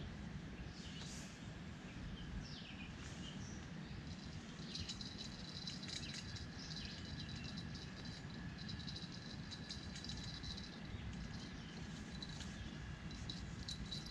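Wild birds chirping and calling, with short falling chirps early on and a thin steady high note from about five seconds in, over a steady low rumble.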